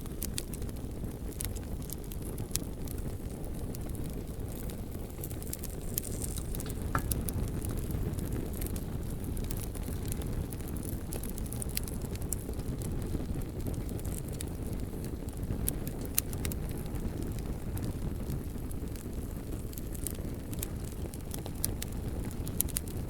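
Bonfire of burning logs: a steady low rumble of the flames with scattered sharp crackles and pops throughout.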